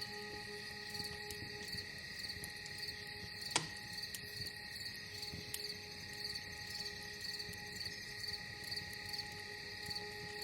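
Crickets chirping in a steady rhythm, about two chirps a second, over a crackling campfire with small pops and one sharper pop about three and a half seconds in.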